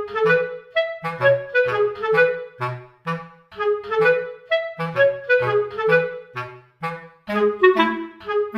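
Background music: a bouncy melody in short, separate notes on a clarinet-like woodwind sound, over a plodding bass line.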